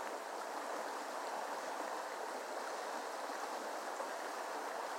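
Creek water rushing and burbling steadily.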